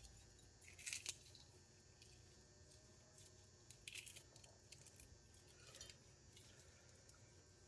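Near silence with a few faint, short crackles and light clicks of small kitchen handling, about a second in, near four seconds and near six seconds.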